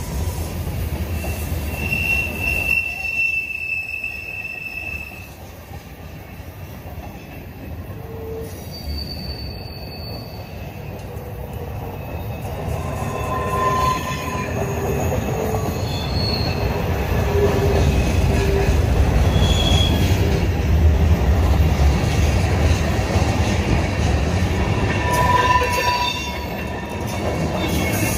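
Freight cars rolling past on a curve, wheels rumbling on the rails, with several brief high-pitched wheel squeals at different pitches as the flanges grind against the curved rail. The rumble grows louder in the second half.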